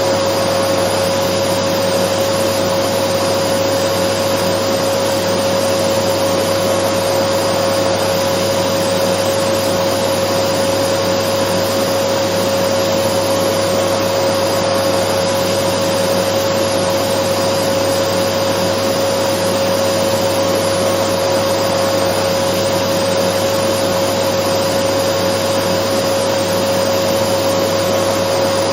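Dyson vacuum cleaner running steadily: an even rushing noise with one held tone in it, never changing in pitch or level.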